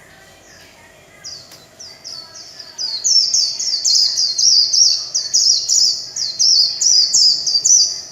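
White-eye (vành khuyên) singing a rapid warbling 'líu' song of high, quickly repeated down-slurred notes. It starts softly, grows loud about three seconds in, and stops just before the end.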